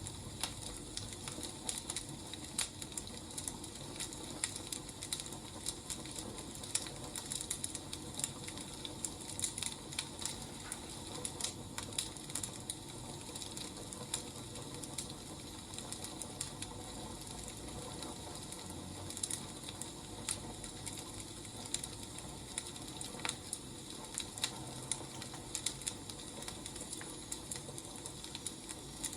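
Wood fire crackling: irregular sharp pops and snaps over a steady low hiss of burning logs.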